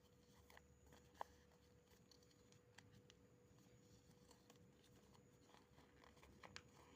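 Near silence: faint rustles and light ticks of paper being folded by hand, one sharper tick about a second in, over a faint steady hum.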